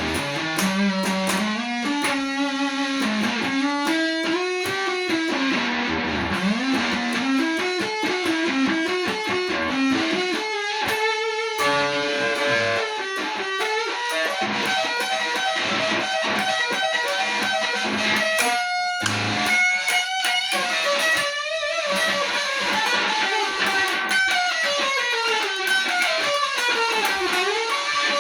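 Electric guitar playing a blues-rock solo, with bent and sliding notes and runs of fast repeated notes.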